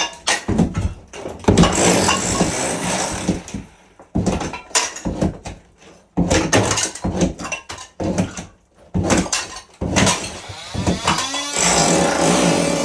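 Bathroom demolition: a string of sharp knocks and hard impacts, with two longer stretches of crunching and clattering debris as fixtures and tile are broken out. Music comes in near the end.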